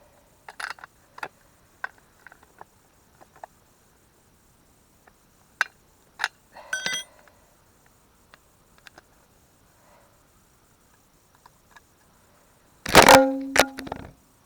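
Husqvarna 44 two-stroke chainsaw being handled, with scattered light clicks and knocks, then near the end a loud burst about a second long from a pull on its recoil starter on a first start attempt.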